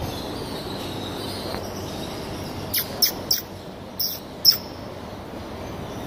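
A bird chirping five times in quick succession, short sharp high chirps about halfway through, over a steady rushing background noise.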